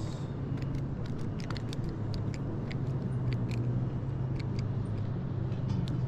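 Boat motor idling steadily, with scattered light clicks and taps over it.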